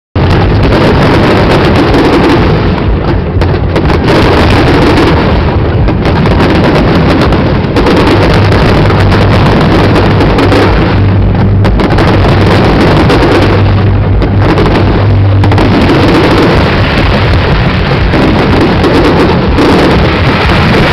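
Dense fireworks barrage: many shells and crackling effects going off in quick succession, merging into one continuous loud din with no gaps, loud enough to overload the microphone.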